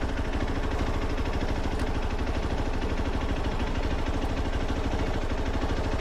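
Motorcycle engine running at steady revs, a fast even pulse with no change in pitch.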